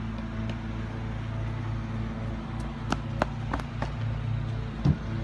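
Car engine idling steadily, with a few sharp clicks and a louder knock near the end.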